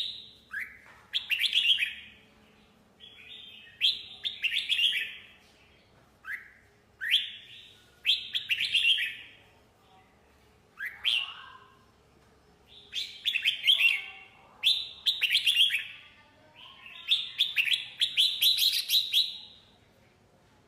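Red-whiskered bulbul singing: short phrases of quick chirpy notes, one every second or two with brief pauses between, the phrases running longer near the end.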